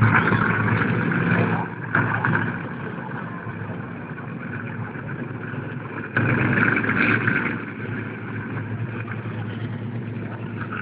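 Monster truck engine running and revving, with loud surges at the start and again about six seconds in, settling to a lower rumble between and after.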